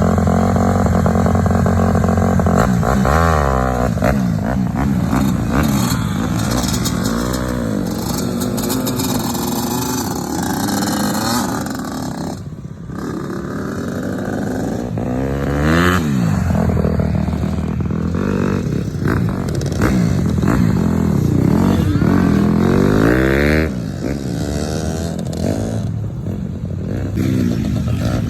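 Yamaha PW50's small two-stroke single-cylinder engine, revved up and eased off over and over as the throttle is worked, its pitch rising and falling every few seconds.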